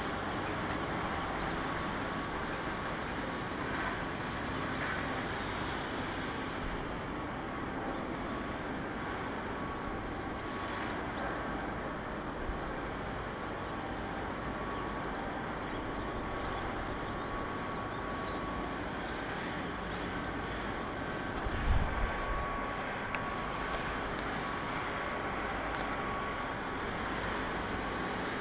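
Steady outdoor background noise with a faint steady tone that comes and goes, and a brief low thump about three quarters of the way through.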